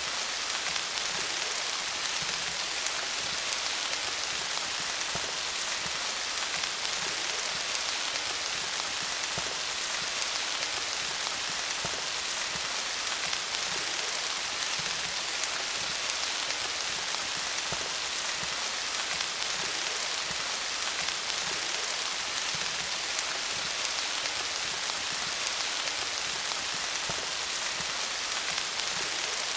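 Steady rain falling on leaves: a dense, even patter of many small drops with no change in intensity.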